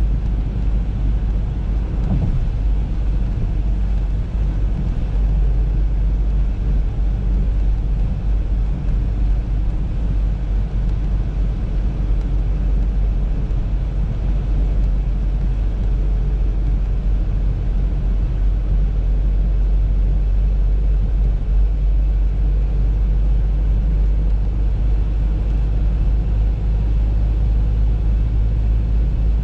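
Audi A3 driving at a steady pace: an unbroken low rumble of engine and road noise.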